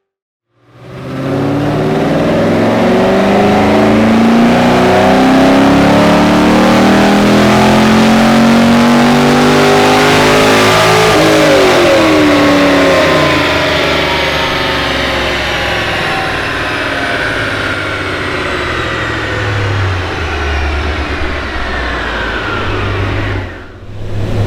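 A vehicle's engine accelerating hard, climbing in pitch through several gear changes, then the revs falling away as it slows, leaving a low steady engine hum.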